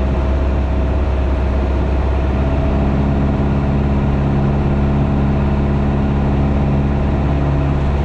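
Piper PA-28's piston engine and propeller droning steadily in the cabin, with a slight shift in engine pitch about two seconds in.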